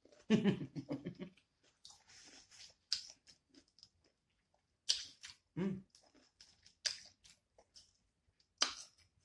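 Close-up chewing and lip-smacking on rotisserie chicken: irregular wet clicks and smacks, with a short hum just after the start and another brief one about halfway through.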